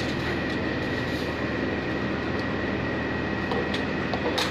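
Steady machine hum with a constant high whine above it, and a sharp click near the end.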